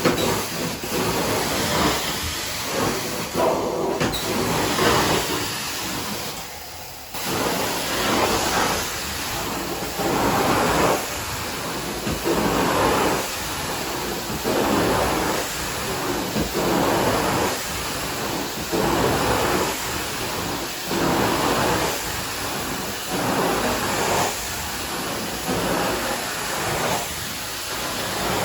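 Carpet-cleaning machine running with a steady suction hiss. Its sound swells and fades regularly, roughly once every second or so, as it is worked back and forth over the carpet, after a brief dip about six to seven seconds in.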